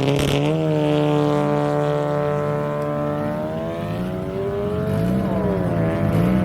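A sports car's engine accelerating hard, its pitch climbing steadily, dropping once about five seconds in as it shifts up a gear, then climbing again.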